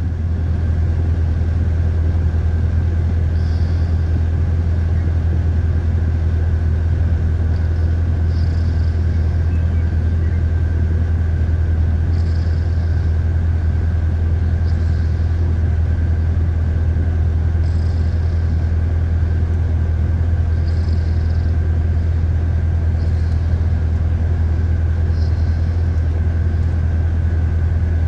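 Chevrolet 350 (5.7 L) V8 idling steadily in drive while stationary, with the air conditioning running: a constant low hum with a faint steady whine over it.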